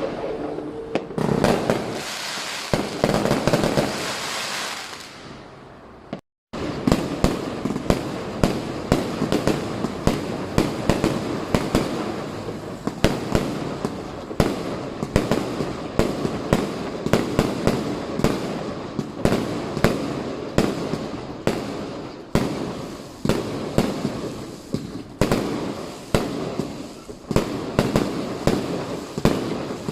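Chinese New Year firecrackers and fireworks going off in a dense barrage of rapid, overlapping cracks and bangs. A hissing crackle in the first few seconds fades and cuts out briefly about six seconds in. Then a continuous volley of sharp reports runs on without pause.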